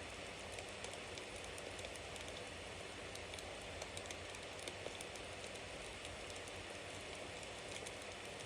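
Campfire burning steadily: a soft continuous hiss of flames with frequent small crackles and pops from the burning wood.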